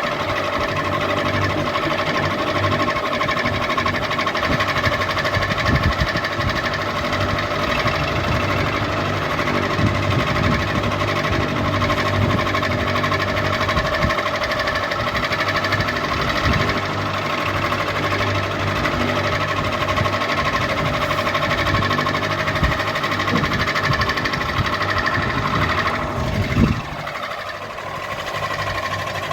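Ceiling fan running steadily: a motor hum with several steady tones and an irregular light rattle. Near the end there is a brief knock and the low hum drops away for a couple of seconds before coming back.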